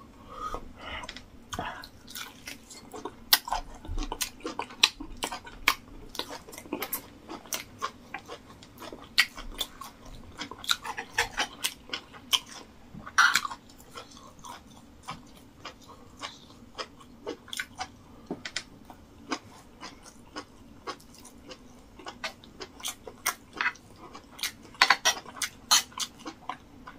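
Close-up chewing and lip-smacking of a man eating rice and meat stew: an irregular run of wet clicks and smacks, several a second, a little louder about halfway through and near the end.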